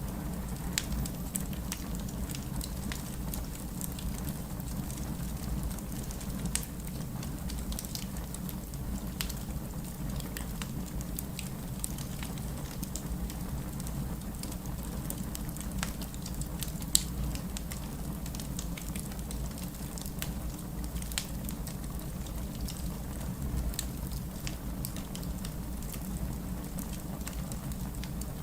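Wood fire crackling with frequent small pops, one sharper pop about two-thirds of the way through, over a steady low rush of heavy rain.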